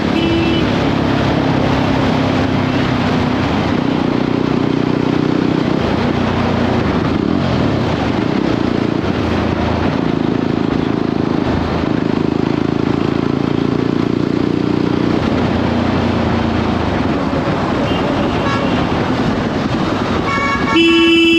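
Single-cylinder Jawa 42 motorcycle engine running at highway speed under wind rush, its note stepping up and down several times as the throttle changes. A horn toots briefly at the start and sounds loudly near the end.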